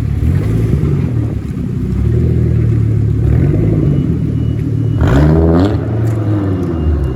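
Car engine running under load, its pitch climbing as it revs about five seconds in.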